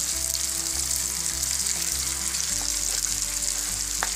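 Marinated chicken and onion-tomato masala sizzling steadily in hot oil in a frying pan, turned over with a wooden spatula.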